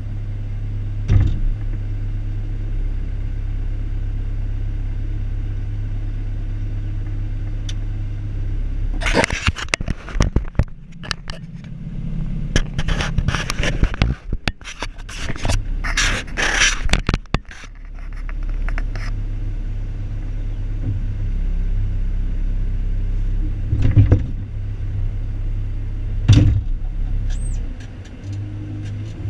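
Excavator engine running steadily while the bucket scrapes and clanks as it digs. There is a dense run of scraping and knocking in the middle and single sharp clanks near the end.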